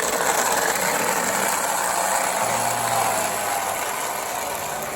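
O gauge model locomotive running at full throttle under heavy load as it strains to pull a long train, a steady mechanical running noise from its motor and wheels on the track.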